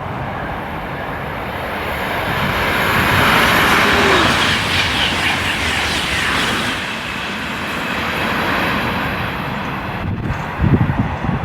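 High-speed TGV train passing through at speed: a rushing noise of wheels and air that swells to its loudest a few seconds in, then slowly eases off. Wind buffets the microphone near the end.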